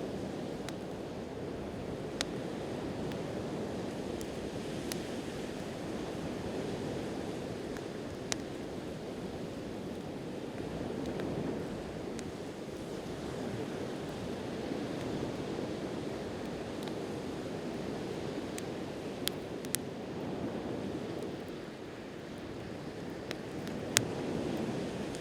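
Wood campfire crackling, with a few sharp pops scattered through and the loudest near the end, over steady ocean surf that swells and eases.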